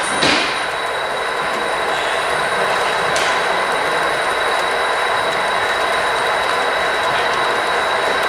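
HO-scale model train running on the layout track: a steady rolling rattle with a thin, steady high whine, and a faint click near the start and another about three seconds in.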